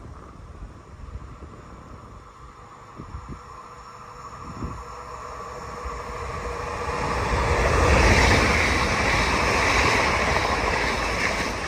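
A train approaching and passing close by. Its rolling noise grows from about halfway through and is loudest near the end.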